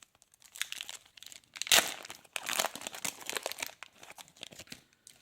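Foil wrapper of a trading-card pack crinkling and tearing as it is opened, with the loudest crackle about two seconds in.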